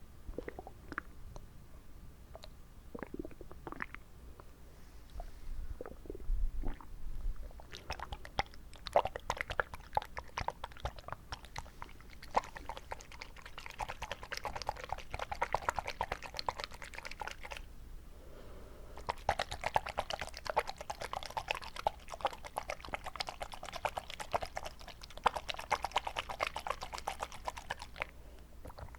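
Close-up mouth sounds of water held in the mouth: a few scattered wet clicks, then two long dense runs of crackling, sloshing wet clicks with a short pause between them.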